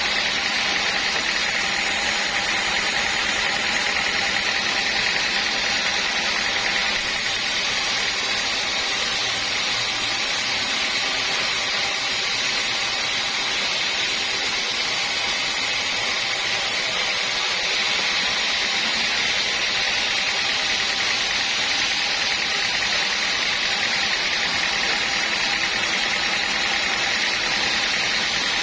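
Sawmill band saw running steadily through teak wood: an even, unbroken machine noise with no pauses.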